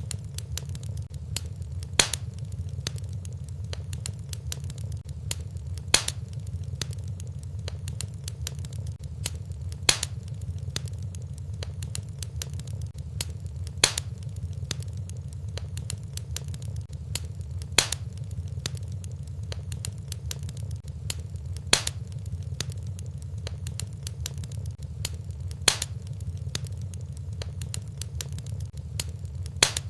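Fireplace fire burning with a steady low rumble and light crackling, and a sharp log pop about every four seconds.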